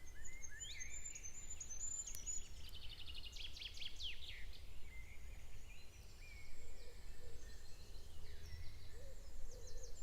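Wild songbirds chirping and trilling, with a quick run of calls in the middle, over a steady low rumble.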